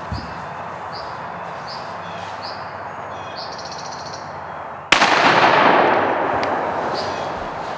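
A single shotgun blast about five seconds in, fired at a turkey, its report rolling away over the next couple of seconds. Before it, a small bird chirps repeatedly.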